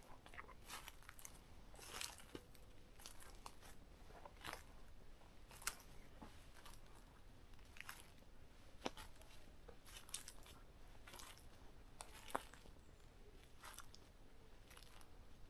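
Faint footsteps crunching on the forest floor's leaf litter and twigs, in an uneven walking rhythm of roughly one or two steps a second, with a few sharper clicks among them.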